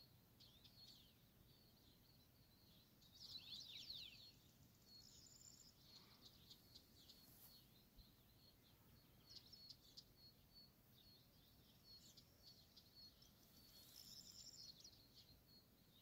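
Faint birdsong: quick high chirps and trills, busiest about three seconds in and again near the end.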